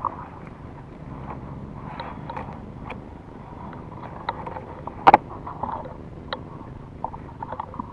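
A steady low rumble with scattered small clicks and knocks, and one sharp double crack about five seconds in that is the loudest sound.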